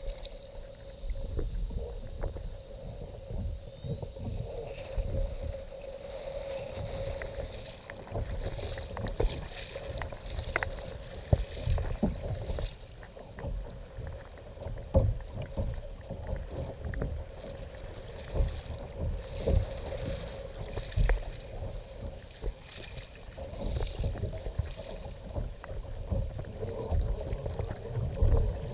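Kayak moving on the water: irregular splashing and knocking of water against the hull, with wind buffeting the microphone and a steady faint hum underneath.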